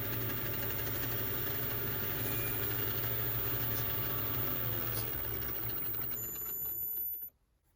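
Milling machine running with its cutter taking a cut across a steel lathe tool blank: a steady motor hum with cutting noise that stops abruptly near the end.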